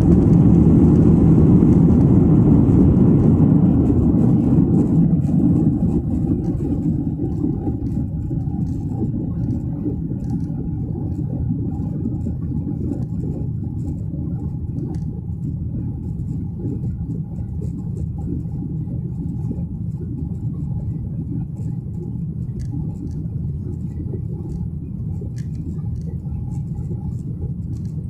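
Airliner engine rumble during takeoff. It is loud for the first few seconds, then eases to a steady lower drone by about six seconds in.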